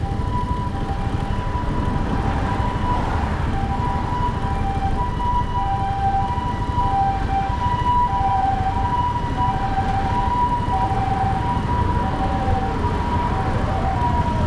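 Japanese ambulance siren alternating between a higher and a lower note in the two-tone "pee-poh" pattern, over steady low wind and road noise from the motorcycle. Near the end a rising-and-falling wailing tone joins in.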